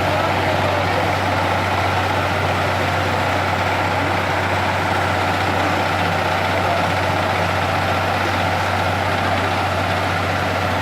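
Engine of a heavy road-building machine running steadily at a constant speed.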